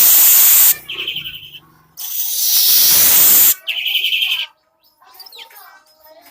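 Manyar (weaver bird) singing: two loud, wheezy hissing phrases, each followed by a short rapid rattling trill, then a few faint chirps near the end.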